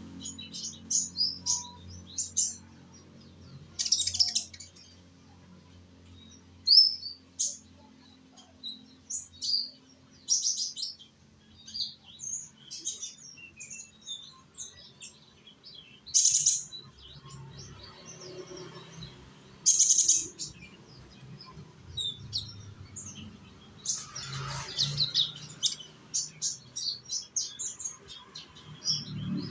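Young konin singing in quick runs of short, high chirps and twitters, with a few louder notes standing out, over a faint low hum. This is the song used as a lure to get other konin to sing along.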